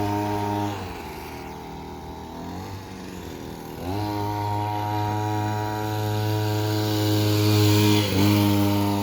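Mini bike's small engine running at a steady speed. It sags in pitch about a second in as it takes load, rises back up just before four seconds, and dips briefly again near eight seconds.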